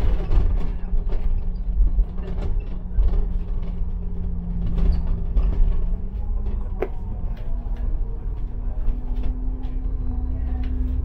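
Bus engine running under a heavy low rumble, heard from inside the bus; its note holds steady, then rises about six seconds in as the bus pulls harder. Rattles and creaks from the cabin throughout, with one sharp click about seven seconds in.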